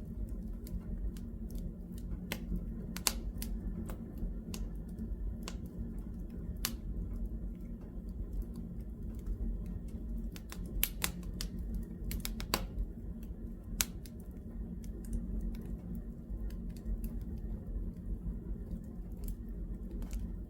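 Wood fire in a fireplace crackling, with irregular sharp pops and snaps over a low steady rumble of the burning logs.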